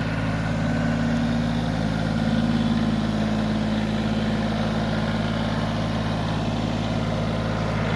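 Kioti CK20S compact tractor's diesel engine running steadily, with no change in pace.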